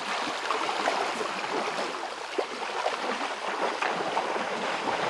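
Running water trickling and gurgling, with many small splashes throughout.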